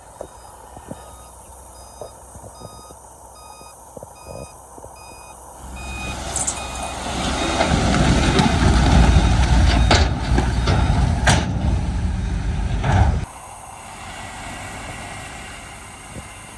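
A dump truck's reversing alarm beeps about twice a second. From about six seconds in, a loud, heavy rumble with clattering knocks follows, the sound of a load of rock sliding out of the tipped bed. It stops suddenly near the end.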